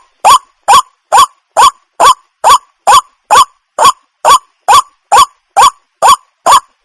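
Water hen calling over and over: short, loud notes, each rising in pitch, repeated evenly at a little over two a second.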